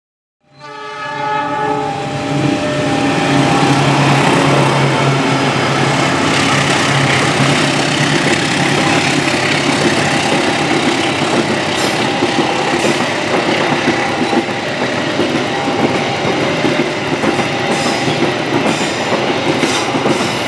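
CC 206 diesel-electric locomotive hauling the Gajayana passenger train sounds its horn for the first several seconds. Its coaches then roll steadily past close by, with wheel-on-rail clatter and a few sharp clicks in the second half.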